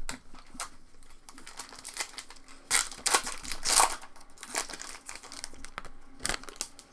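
Foil trading-card pack wrappers crinkling and tearing as packs are opened and handled, in irregular rustles with the busiest stretch about halfway through.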